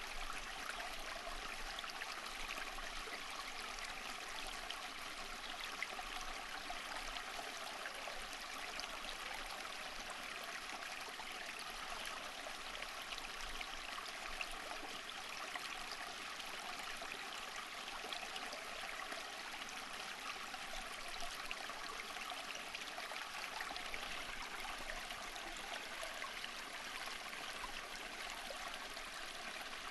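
Running water of a stream, a steady babbling rush with fine splashes and trickles.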